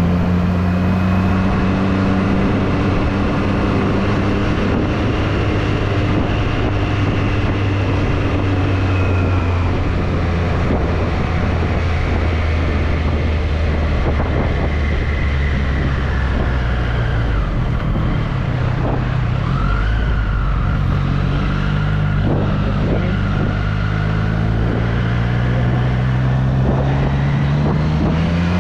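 2024 Triumph Street Triple's three-cylinder engine: revs ease down over the first several seconds, hold low and steady for a long stretch, then rise quickly as the bike pulls away near the end.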